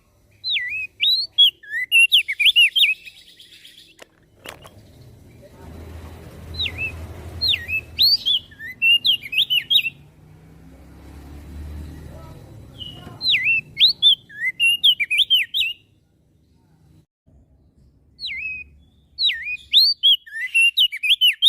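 Crested white-eye (opior jambul) singing in four bursts of quick, sharp chirping notes that sweep up and down, with short pauses between the bursts. A low rumble runs under the song through the middle, and a single click comes about four seconds in.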